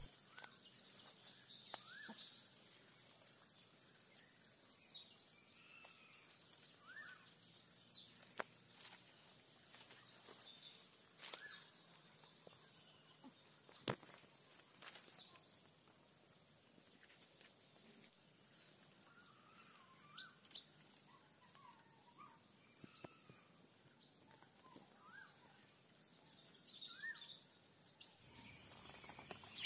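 Faint birds calling at intervals, short high chirps every few seconds, over a steady high hiss. A single sharp click comes about halfway through.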